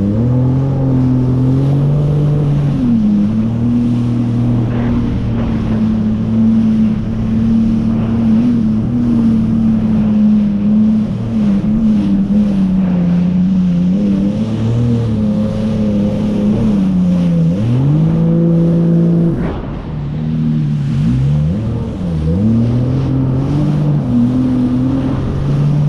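Jet ski engine running, its pitch falling and climbing again a few times as the throttle is eased off and reopened.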